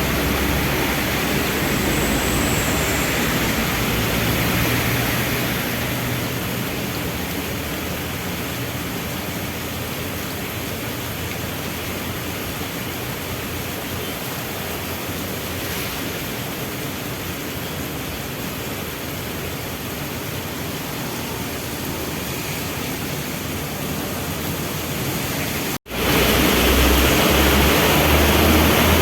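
Heavy rain falling steadily, with the low hum of vehicle engines underneath. The sound cuts out for an instant near the end and comes back louder, with a heavier engine rumble.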